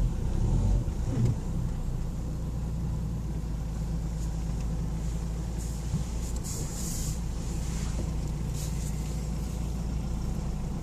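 Nissan X-Trail 1.6 dCi four-cylinder turbodiesel heard from inside the cabin, running at low revs with a steady low rumble as the SUV drives along a forest track. A few brief higher rushing sounds come about six to nine seconds in.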